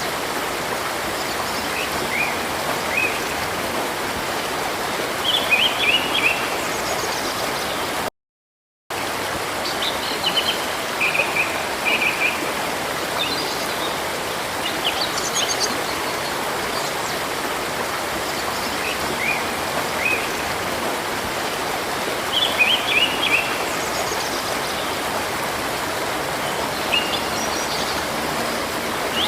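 Steady rush of flowing river water, with small birds chirping in short bursts of quick notes every few seconds. The sound cuts out completely for under a second about eight seconds in.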